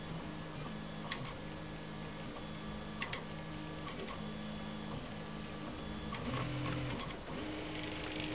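Stepper motors of a RepRap 3D printer running as it prints: a low whine that jumps between a few pitches as the moves change, with a couple of sharp clicks about one and three seconds in.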